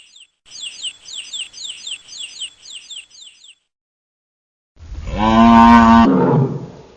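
A songbird repeats quick, high down-slurred chirps, about three a second, which stop after a few seconds. After a short silence a cow gives one long, loud moo that drops in pitch at the end.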